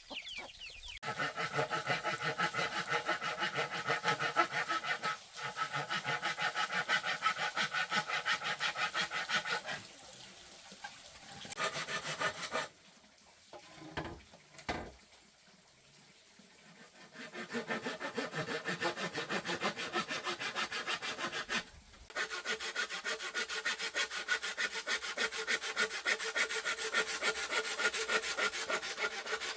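Hand saw cutting through bamboo in fast, even back-and-forth strokes, the hollow stem ringing with each stroke. It runs in several long stretches with short pauses, and a couple of knocks fall in the longest pause.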